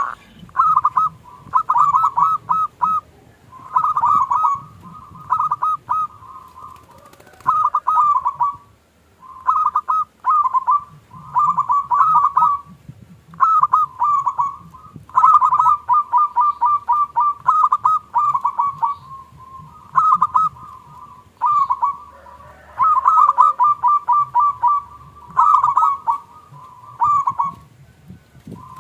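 Zebra dove (perkutut) singing, repeated phrases of quick, clipped cooing notes, one phrase every second or two.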